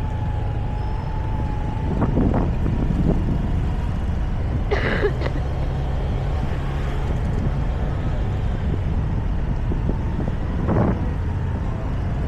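Motorbike engine running steadily on the move, with road noise. A few brief louder sounds cut in about two, five and eleven seconds in.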